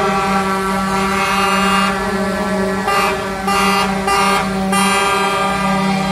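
Truck air horn held on one long steady note, with three short extra blasts about halfway through.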